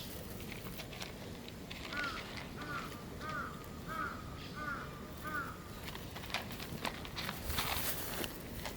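A kitten mewing six times in quick succession, short rising-then-falling high-pitched mews, with scattered light taps and clicks.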